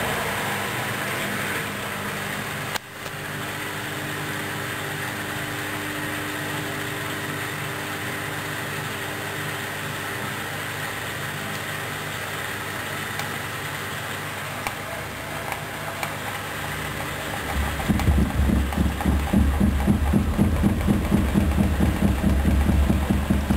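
Hoover DYN10124DP washing machine in a rinse of its synthetics cycle: a steady running hum that drops suddenly about three seconds in, then, about eighteen seconds in, a louder low pulsing sets in at about two beats a second.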